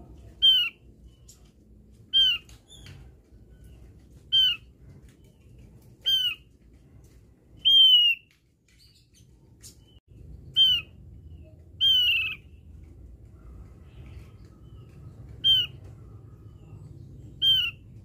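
Opior jawa (Javan grey-throated white-eye) calling: a short, downward-slurred note repeated about every two seconds, nine times, two of them a little longer, over a faint low rumble.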